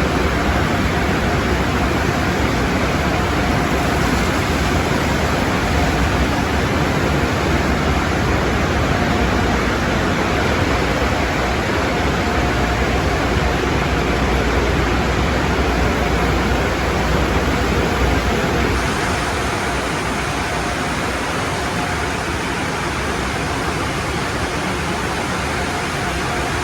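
Automatic tunnel car wash equipment running with a loud, steady rushing noise of water spray and machinery, with a faint steady tone. About two-thirds of the way through, the low rumble drops away and it gets a little quieter.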